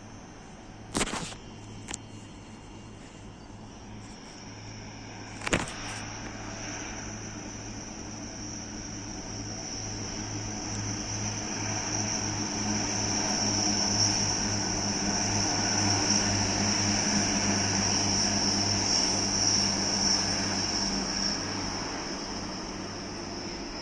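A train passing: its noise builds gradually for several seconds, holds at its loudest with a steady high whine, then eases a little near the end. Two sharp knocks sound in the first few seconds.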